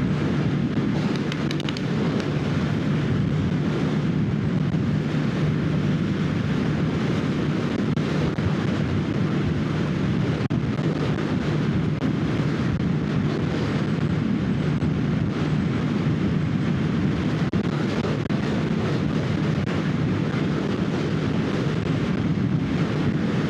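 2025 Kawasaki Ninja 650's parallel-twin engine running at a steady cruise under heavy wind rush on the helmet microphone.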